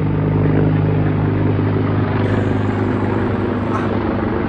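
CH-53 helicopter flying over, its rotor and engine noise loud and steady with a low drone.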